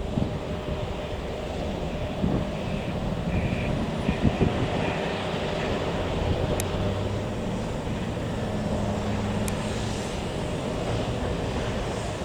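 Jet engines of a Boeing 747-428 running in a steady rumble, with wind buffeting the microphone in short gusts.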